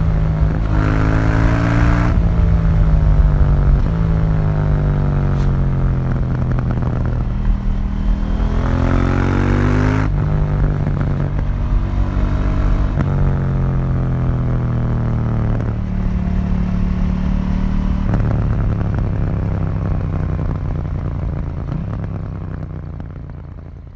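2018 KTM 790 Duke's parallel-twin engine through its stock exhaust, heard onboard. The engine speeds up and slows repeatedly: long falls in pitch as the bike slows, short rises as it pulls away, then a steadier stretch. It fades out near the end.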